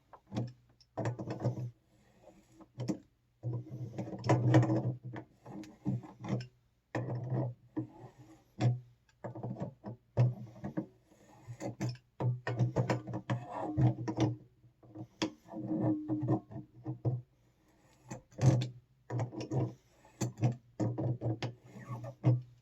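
New electric water heater element being turned into the threads of the tank: irregular strokes of creaking and scraping with a low drone and some clicks, stopping and starting with short quiet gaps between them.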